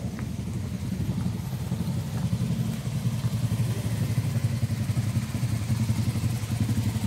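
Motorcycle engine idling, a steady low rumble that gets a little louder after a couple of seconds.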